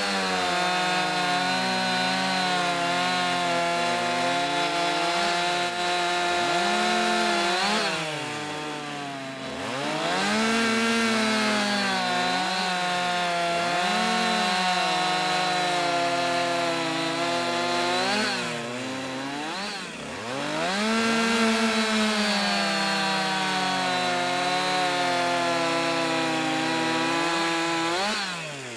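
Two-stroke chainsaw running at high throttle through three long cuts in wood, its engine pitch sagging and recovering under load. Between cuts the throttle eases off briefly, about nine and twenty seconds in and again near the end, before it revs back up.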